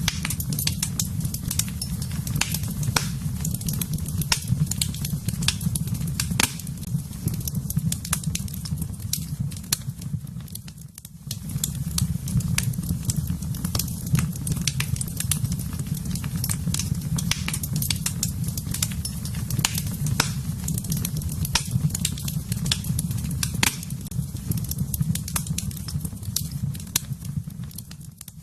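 Fire crackling in a fireplace: a steady low rumble of flames under frequent sharp crackles and pops. The sound briefly drops away about eleven seconds in and again near the end.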